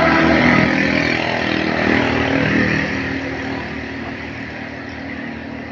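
Heavy road vehicle running past, engine and road noise loudest at the start and easing off after a few seconds.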